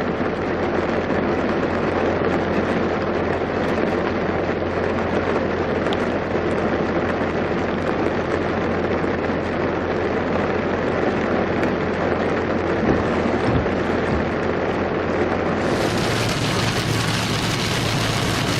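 Heavy rain falling steadily, a dense even hiss over a steady low hum. About three seconds before the end the sound turns brighter and sharper.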